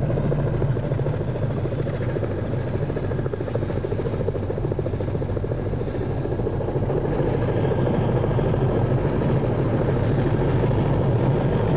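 Helicopter running steadily, a continuous low engine and rotor drone.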